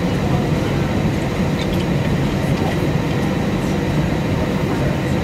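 Steady cabin noise of an Airbus A320-232 airliner with IAE V2500 engines: an even, loud low rumble of engines and airflow.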